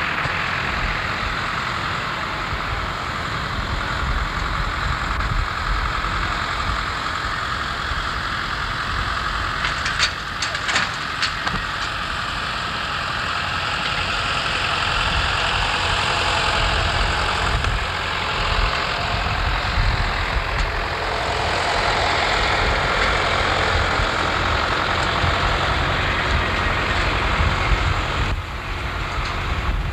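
Steady low vehicle rumble with a hiss, with a few brief high squeaks about ten seconds in.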